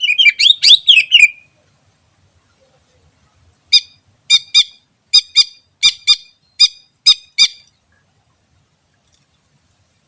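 Cucak ijo (green leafbird) singing: a quick warbled phrase of sweeping notes, then after a short pause a run of about ten short harsh notes, mostly in pairs.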